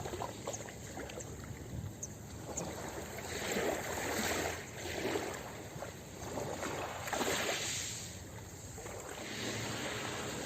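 Ocean waves washing onto a beach, the surf rising and falling in several surges.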